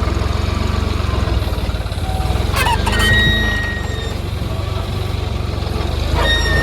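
Tractor loader's diesel engine running steadily with an even low throb. Short high squealing tones come in about three seconds in and again near the end.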